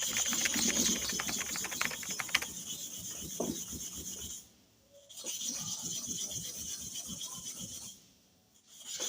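Metal clipper blade rubbed back and forth on a hard sharpening stone, a steady scraping rasp that stops briefly twice.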